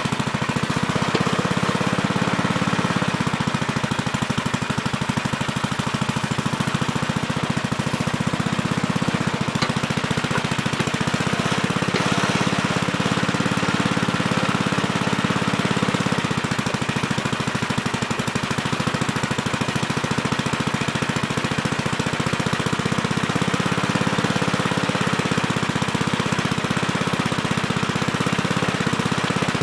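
Gravely Terramite compact backhoe's engine running steadily with a fast, even firing beat, with a couple of faint clicks near the middle.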